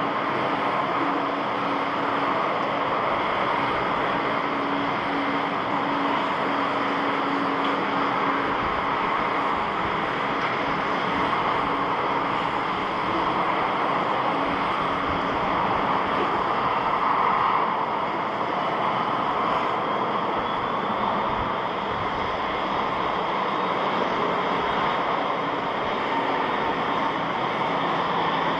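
Jet airliner engines running, a steady, even rush of noise. A faint hum fades out about nine seconds in, and a faint rising whine comes in from about twenty seconds.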